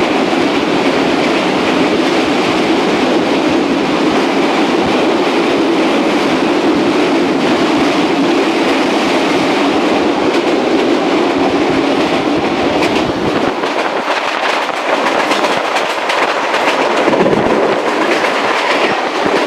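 Train wheels clacking over rail joints and the rush of a freight train's covered boxcars passing close on the next track, heard from the open window of a moving passenger train. About 13 seconds in, the heavy rumble drops away as the freight train is gone, leaving the passenger train's own wheel clicks and rushing air.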